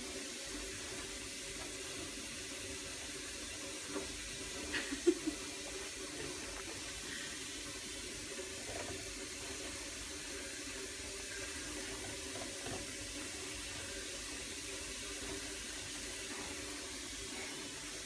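Steady running water, with a few brief faint knocks about four and five seconds in.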